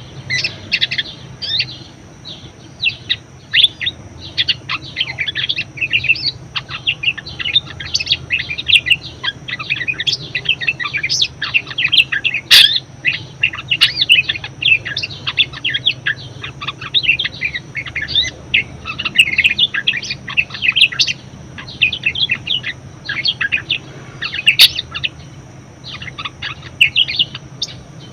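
Budgerigar chattering: a fast, continuous run of short chirps and warbles with a few sharp clicks mixed in, starting just after the beginning.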